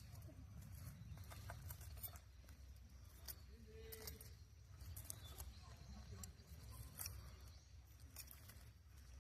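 Wood campfire crackling faintly, with scattered sharp pops a second or so apart over a low steady rumble.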